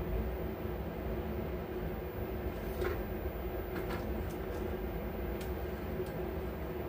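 Audio mixer channel output through an amplifier with a steady hiss over a low mains-type hum, with a few faint clicks in the middle. The repairer attributes the hiss to a failed IC in the channel.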